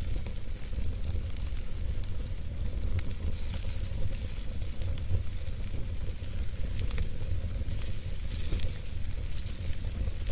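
Wood fire burning in a fireplace, with a steady crackle of many small pops over a low rumble and hiss.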